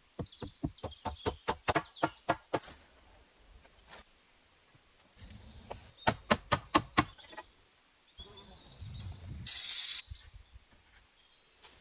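Two runs of quick, evenly spaced footsteps crunching, about four a second, with small birds chirping in short, falling notes between them and a brief hiss near the end.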